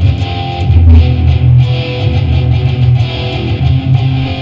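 Guitar playing two-note chords on the low sixth and fifth strings, with a steady run of picked notes, shifting to the first fret of the sixth string and third fret of the fifth.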